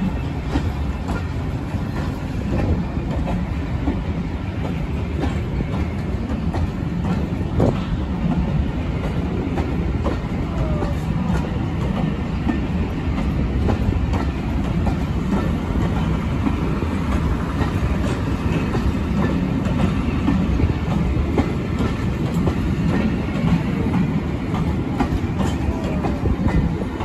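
Rake of passenger coaches rolling past, the wheels clattering over rail joints and pointwork in a steady clickety-clack above a continuous low rumble.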